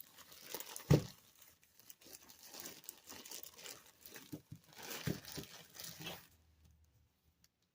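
Plastic bread bag crinkling as it is handled, with a sharp thump about a second in; the crinkling stops about six and a half seconds in.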